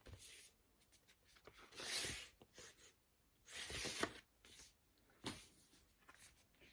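Cardboard LP sleeves sliding and rustling as vinyl albums are handled, with two longer swishes, about two seconds in and around four seconds, and a few light knocks.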